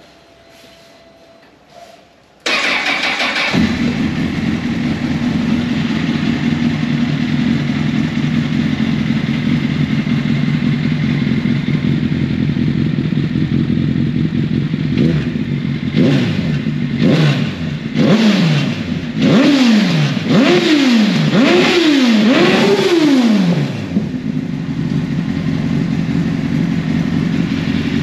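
Honda CBR1000RR inline-four with an Akrapovic carbon slip-on exhaust, started cold: after a brief crank about two and a half seconds in it catches and settles into a steady idle. From about fifteen seconds in come about six quick throttle blips, each rev rising and falling. It then drops back to idle for the last few seconds.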